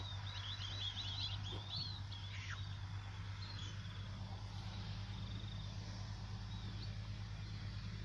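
Small birds chirping: a quick run of short calls in the first couple of seconds, one falling call a little later and a few scattered calls after, over a steady low hum.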